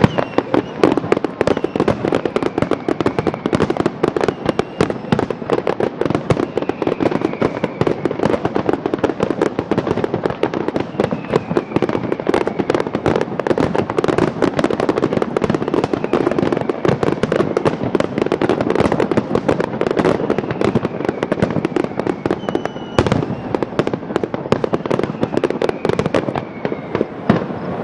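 Fireworks display: a dense, continuous barrage of rapid bangs and crackles, with a few faint whistles falling in pitch.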